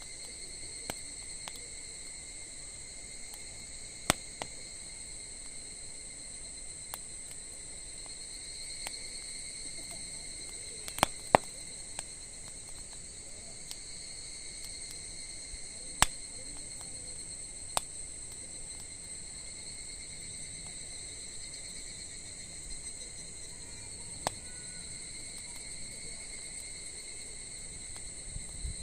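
Wood fire crackling, with sharp, scattered pops every few seconds, over a steady, high chorus of crickets.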